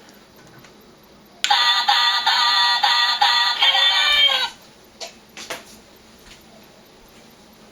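A Minion Iron Man toy figure's built-in speaker playing a short electronic clip of synthetic cartoon-style singing, about three seconds long, starting about a second and a half in. A few short clicks follow it.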